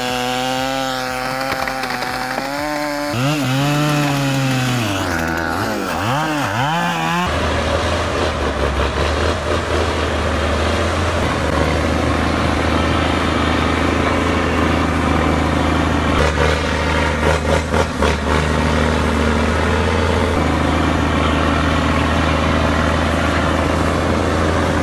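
A chainsaw revving up and down. About seven seconds in, it cuts to a heavy log truck's engine running steadily with a low drone for the rest.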